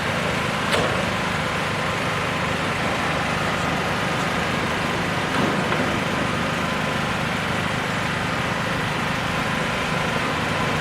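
Steady engine hum of a motor vehicle running, with a single sharp click about a second in.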